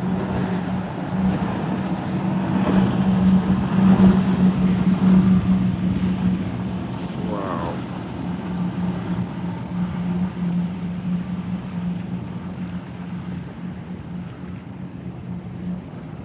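Motorboat running at speed as it passes by: a steady engine drone that grows louder to a peak about four seconds in, then slowly fades away. Wind buffets the microphone and surf washes underneath.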